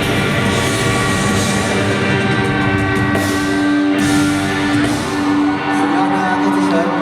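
Live rock band playing loudly through a concert PA, with electric guitar and drums; from about two and a half seconds in a long note is held.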